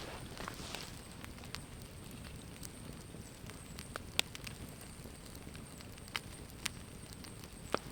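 Campfire burning with a low crackle, and a handful of sharp pops in the second half.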